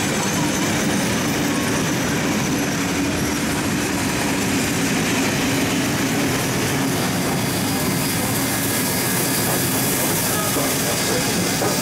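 Heritage passenger train carriages rolling past on the rails, with a steady rumble of wheels and running gear. The steam locomotive at the rear of the train draws past near the end.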